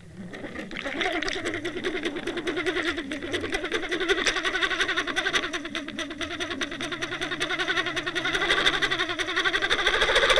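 A watercraft's motor heard underwater through a towed camera housing: a fast, even pulsing drone that swells about a second in and holds steady, with water rushing over the housing.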